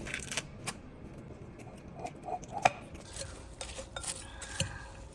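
Irregular clicks and taps of a metal utensil against a dish while a salad with chicken is cut into bite-sized pieces.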